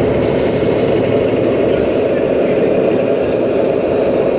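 Radio-controlled model construction vehicles running: a steady engine-like rumble with faint high whines that drift slightly in pitch.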